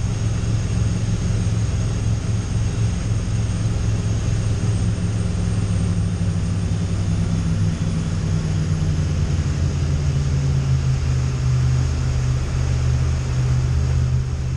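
Boat engine running steadily with a low hum, its pitch dropping about two-thirds of the way through as the throttle is eased back.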